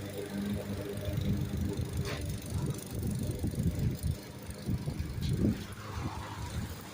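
Toro Recycler self-propelled lawn mower's gas engine running while cutting grass, its rumble wavering unevenly with the load. A brief sharp click comes about two seconds in.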